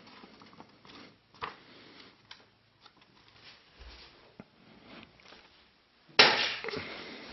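Sheet of paper being handled and folded: faint, irregular rustling and small creasing clicks, then a loud sudden rustle about six seconds in that dies away over a second.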